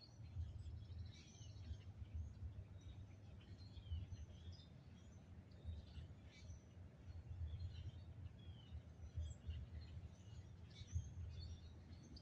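Birds chirping and calling with many short, scattered notes, over a low uneven rumble.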